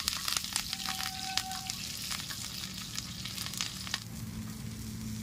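Chopped onion and green chillies sizzling in hot oil on a tawa, a dense crackling that is strongest for the first four seconds and then eases into a lighter sizzle.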